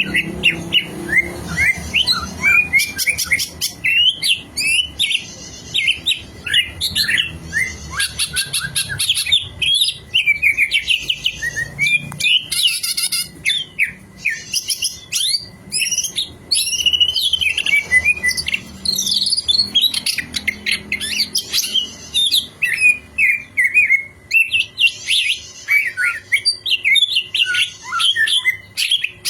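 Green leafbird singing a fast, varied, unbroken run of high whistles, chirps and buzzy trills, used as a lure song to set other songbirds singing.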